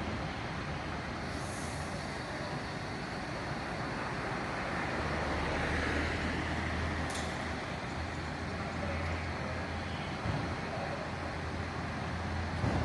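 A large vehicle's engine running steadily, a low drone over general street noise, growing stronger about five seconds in.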